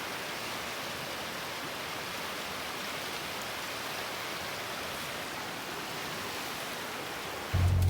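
The Virgin River rushing steadily, running high and fast with snowmelt-level water. Near the end a loud low hum cuts in suddenly.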